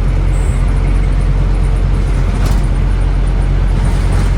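Scania N270UD OmniCity bus's diesel engine running at a steady low drone under road noise while the bus is on the move, with a couple of faint clicks or rattles.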